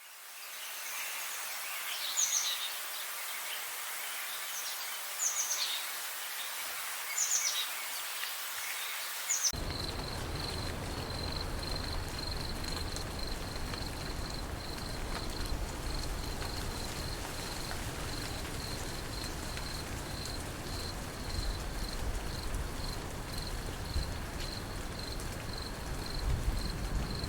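Outdoor nature ambience: four short, falling bird calls over a steady hiss, then an abrupt change after about a third to a low wash of noise with an insect's high chirp pulsing about twice a second.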